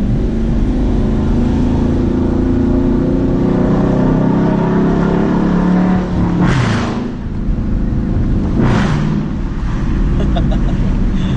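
Muffler-deleted Dodge Charger Daytona V8 accelerating hard in first gear, its exhaust note rising in pitch, then crackling and popping in two short loud bursts on lift-off before settling to a lower, steady drone. Loud, raspy exhaust typical of the mid-muffler delete.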